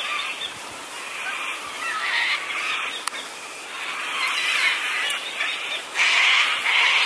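Birds calling and chattering continuously, growing much louder about six seconds in, with one sharp click a little after three seconds.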